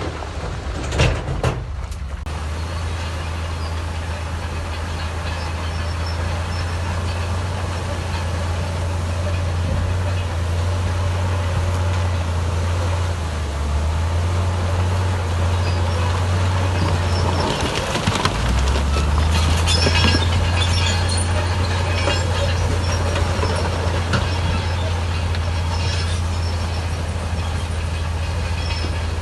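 Heavy diesel construction machinery running under load: a steady, deep engine drone that shifts pitch twice as the load changes. A sharp knock comes about a second in, and metal clanking and rattling build up about two-thirds of the way through.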